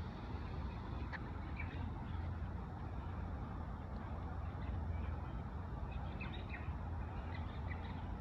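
Birds chirping in short, scattered calls, more often in the last couple of seconds, over a steady low rumble.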